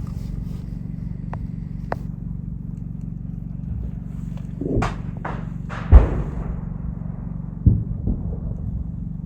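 Gunfire and explosions in a firefight over a steady low hum: a couple of faint cracks in the first two seconds, then a cluster of sharp bangs about five to six seconds in, the loudest near six seconds, and one more bang about eight seconds in.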